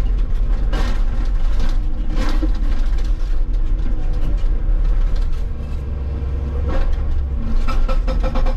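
Hitachi 160 excavator running hard with a steady low engine and hydraulic rumble, heard from the operator's seat, with a few heavy knocks about one, two and seven seconds in.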